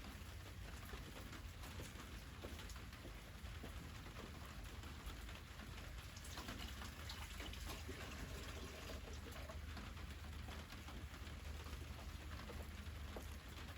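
Wood fire crackling softly, with a steady patter of small pops and snaps.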